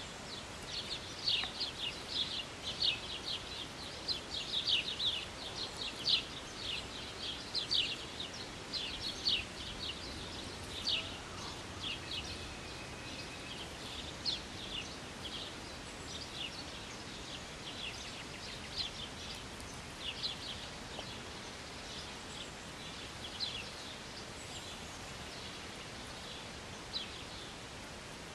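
Small birds chirping: many short, high chirps in quick succession for the first dozen seconds or so, then more sparsely, over a faint steady hiss.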